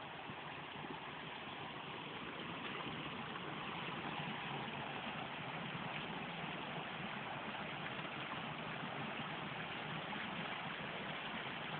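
Waterfall: steady rushing water, growing a little louder about three seconds in.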